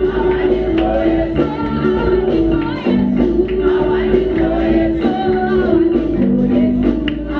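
Live church worship music: voices singing a gospel song over held keyboard and bass notes.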